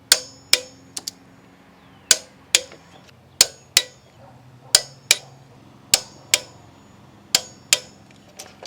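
Hand wrench on a spark plug socket clicking as a new spark plug is tightened down in the 2.4L four-cylinder engine. Sharp metallic clicks come in pairs, about one pair every second and a half.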